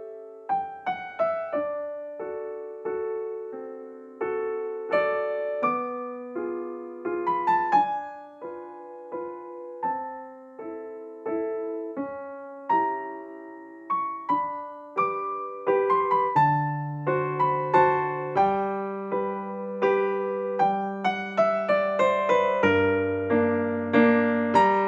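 Background piano music: a gentle melody of single struck notes over chords, with deeper bass notes joining about two-thirds of the way through.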